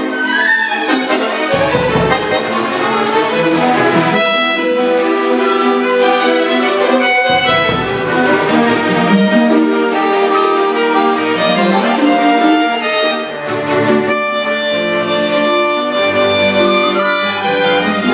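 Accordion and chamber orchestra playing together in a concerto, with bowed strings and winds around the accordion's held chords and lines, and low bass notes coming in now and then.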